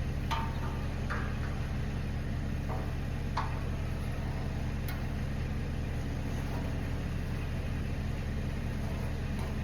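Steady low mechanical hum, with a few faint light clicks of small metal tools.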